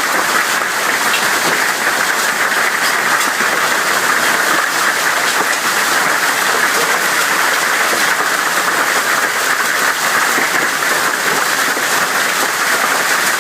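Heavy hail falling, a dense, steady clatter of hailstones that holds unbroken.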